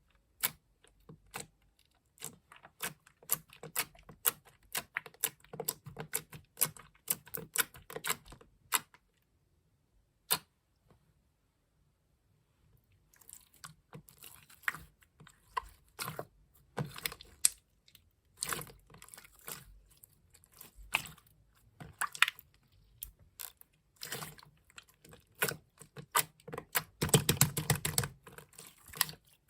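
Clear gel slime being pressed and squeezed by hand, making rapid crisp clicks and pops. The clicking stops for a few seconds about nine seconds in, then resumes, with a denser, louder run of squishing near the end.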